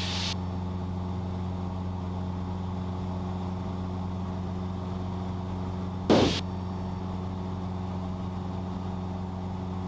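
Cessna 172's piston engine and propeller droning steadily in flight, heard inside the cabin. A short burst of noise cuts in briefly about six seconds in.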